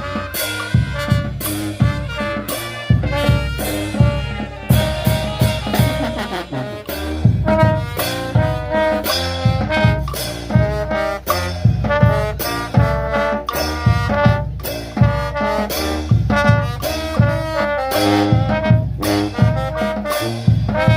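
Brass band music: trumpets, trombones and saxophones playing over drums and a heavy bass, with a steady beat.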